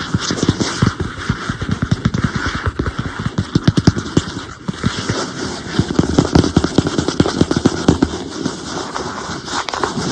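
Fast tapping on an iPad, many taps a second, with a short pause about halfway through.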